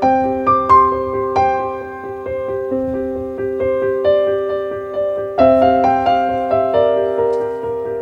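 Background music: a gentle piano piece, notes struck in a steady flowing pattern and left to ring.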